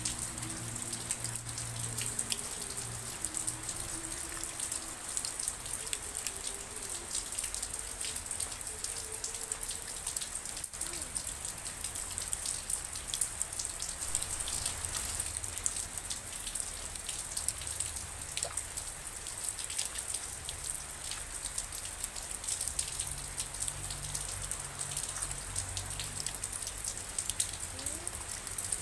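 Steady rain falling, with many individual raindrops striking close by as frequent sharp little hits over an even hiss.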